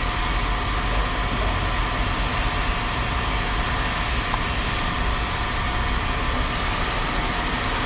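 Steady drone of running machinery: a constant low rumble under an even hiss, with faint steady tones and no breaks or changes.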